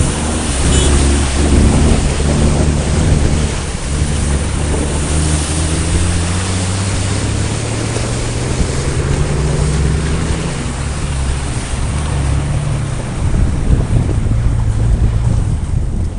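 Off-road 4x4's engine running under load, its speed rising and falling as it works through a muddy ditch, with heavy wind noise on the microphone.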